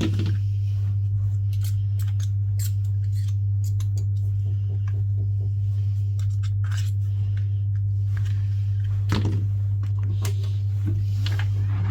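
Steady low hum with scattered small clicks and short scrapes of hand tools working at a phone's back glass.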